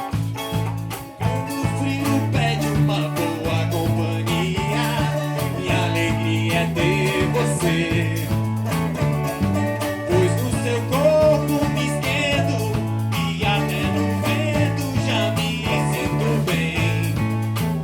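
Live band playing a song: a stepping electric bass line, drum kit, guitar and a ten-string viola caipira, with a voice singing the melody.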